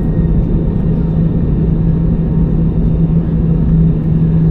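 Steady cabin noise inside an Airbus A320-200 on the ground after landing: an even low rumble with a constant hum.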